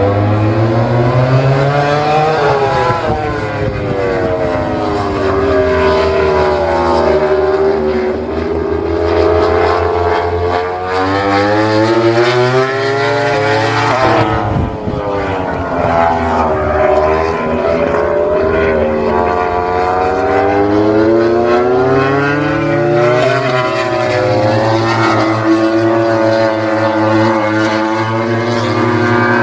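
Racing motorcycle engines running hard, their pitch climbing and dropping over and over as the bikes accelerate, shift and pass by on the circuit.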